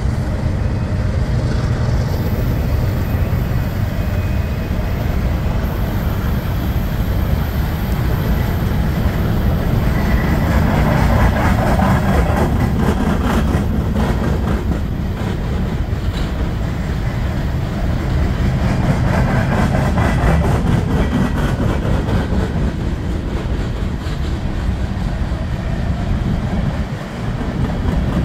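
Empty coal cars of a freight train rolling past: a steady rumble of steel wheels on rail with a run of rapid clicks as the wheels cross rail joints.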